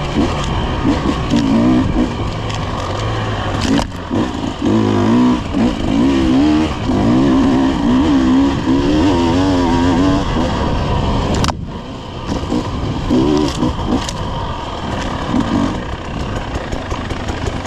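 An off-road vehicle's engine running on a dirt trail, its pitch rising and falling as the throttle is worked, with wind and trail noise. About eleven and a half seconds in, the engine briefly drops off and then picks up again.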